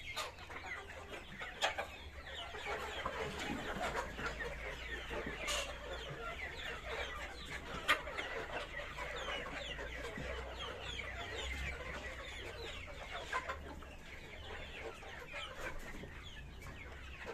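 A flock of Sonali chicks cheeping together, a dense chorus of many short falling peeps, with a few sharp knocks and a steady low hum underneath.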